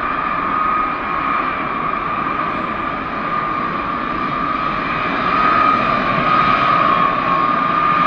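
Jet engines of a B-52 Stratofortress running: a steady high whine over a continuous rushing noise, growing slightly louder about five seconds in.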